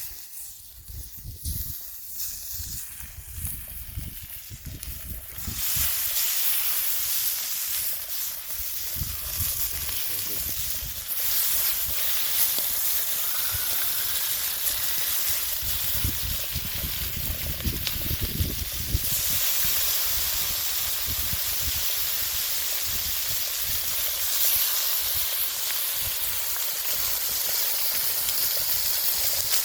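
Steady rushing of a mountain stream, getting louder in steps as the microphone nears the water, with low wind buffeting on the microphone.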